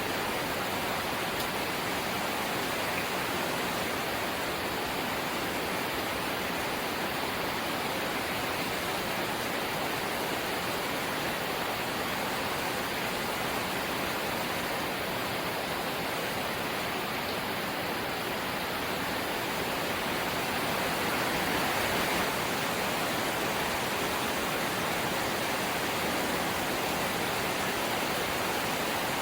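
Steady rain falling on a corrugated zinc roof, a dense even hiss that grows slightly louder about two-thirds of the way in.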